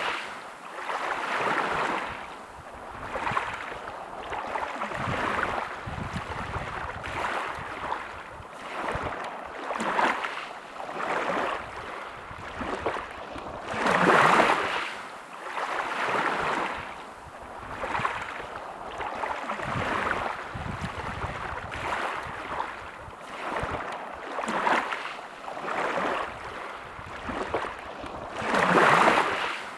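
Sea waves washing onto a beach: a wash of surf that swells and falls back every second or two, with bigger waves breaking about halfway through and again near the end.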